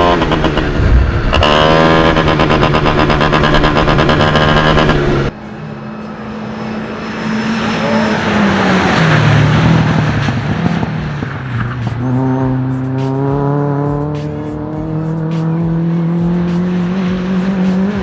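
Mark 1 GTI Challenge race car engine revving hard under acceleration, breaking off abruptly about five seconds in. The engine then falls in pitch as it slows and climbs steadily in pitch again through the last six seconds as it accelerates.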